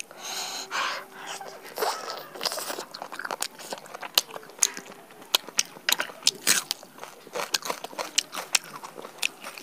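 A whole roasted chicken being eaten close to a clip-on microphone: a dense run of quick, crisp crunches and wet mouth clicks from chewing, mixed with the meat being torn apart by hand.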